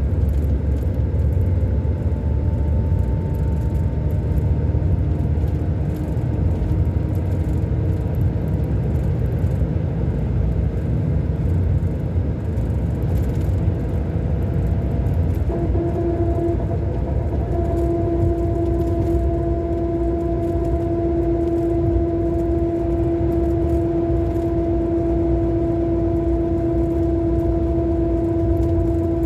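Scania K400 coach's inline-six diesel engine running with a steady deep rumble. About halfway through, a steady whine comes in suddenly and grows stronger a couple of seconds later.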